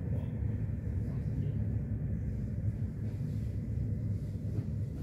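Steady low rumble of an electric commuter train running along the track, heard from inside the carriage, with a faint steady hum above it.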